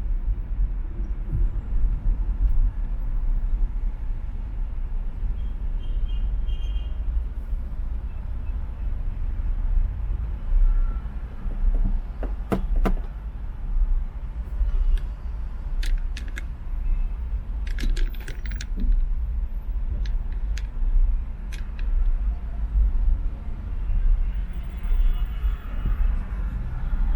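Car driving on an expressway: a steady low road and engine rumble, with a scattering of short clicks and rattles midway through.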